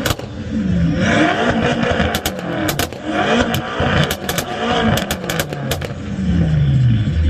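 Car engine with a loud exhaust being revved again and again, its pitch dropping after each blip, with bursts of sharp cracks in between.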